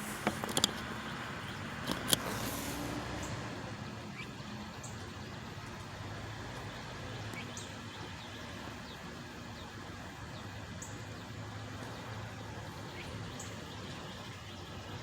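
Truck engine running with a low, steady rumble, its pitch rising briefly about two seconds in. Several sharp knocks in the first two seconds are the loudest sounds, and a few short, high bird chirps come at intervals.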